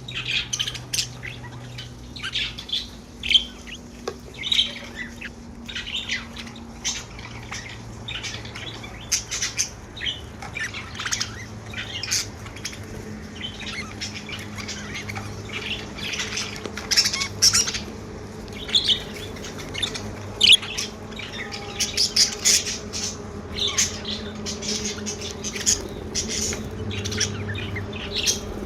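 Pet budgerigars chirping and squawking continuously, with many short, quick calls overlapping. A faint steady low hum runs underneath.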